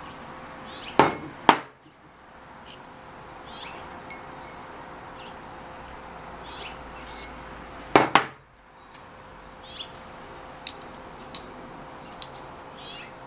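Two pairs of sharp knocks, metal on metal, with a short ring: a pair about a second in and a close double about eight seconds in, then a few light ticks. Birds chirp in the background.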